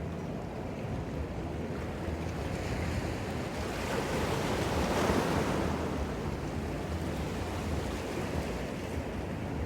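Ocean surf: a wave swells, breaks and washes out about halfway through, over a steady low rumble of wind on the microphone.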